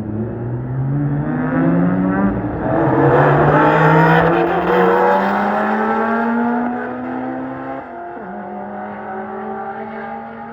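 Race car engine accelerating hard through the gears, its pitch climbing and then dropping at gear changes about two and a half and eight seconds in. It is loudest around four seconds in, then eases off as the car pulls away.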